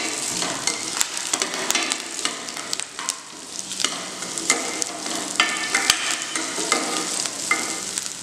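Sliced onions, green chillies and curry leaves sizzling in hot oil in a nonstick pot. A plastic spoon stirs them, scraping and tapping against the pan in many short clicks over the steady frying hiss.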